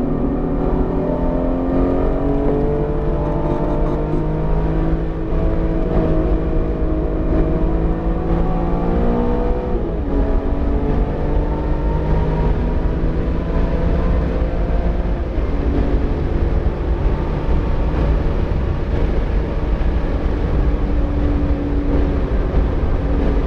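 BMW E46 M3's S54 inline-six, freshly rebuilt and still being broken in, pulling hard under load: its pitch climbs for about ten seconds, dips briefly, climbs again, then drops a little past halfway and holds lower. A constant low rumble of road and wind noise runs underneath.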